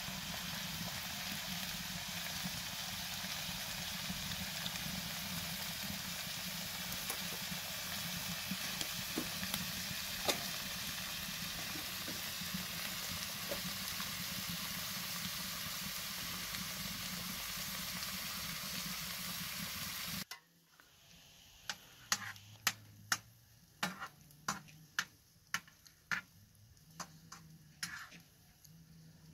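Vegetables sizzling steadily as they fry in a large shallow pan. About two-thirds of the way through, the sizzle cuts off abruptly, and a quieter run of sharp clicks follows.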